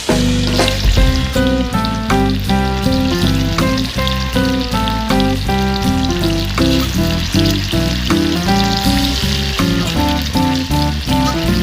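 Food sizzling as it fries in a little hot oil in a kadai, a steady crackling hiss, under background music with a melody and bass line.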